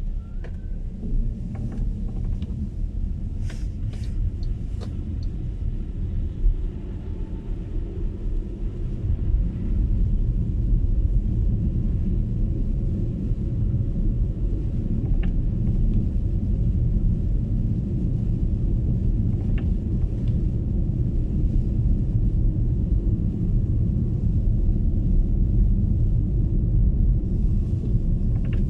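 Road and tyre noise of an MG ZS EV electric car driving on a snowy road: a steady low rumble that grows a little louder about ten seconds in, with a few faint clicks.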